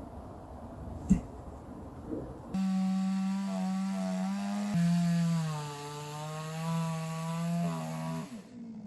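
Two-stroke chainsaw sawing through a firewood log. After a sharp knock about a second in, the saw runs loud and steady, its pitch dropping a step midway as the chain bites under load, then it cuts off near the end.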